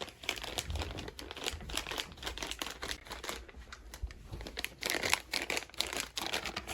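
Plastic treat bag being crinkled, a dense run of crackles that swells briefly near the end.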